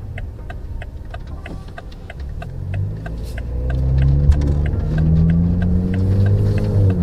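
Modified 2020 Toyota Supra's turbocharged inline-six with an aftermarket exhaust pulling away out of a turn: the engine note climbs and grows louder from about two and a half seconds in, then holds. The turn-signal relay ticks steadily over it, about three ticks a second.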